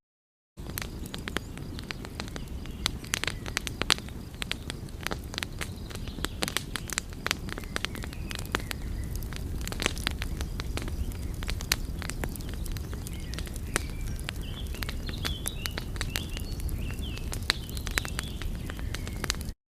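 Wood fire crackling, with many irregular sharp pops and snaps over a steady low rumble. The sound cuts out briefly just after the start and again near the end.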